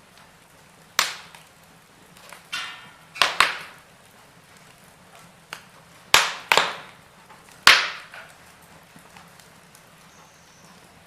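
Wood fire burning in a fireplace, crackling with several sharp, loud pops at irregular intervals.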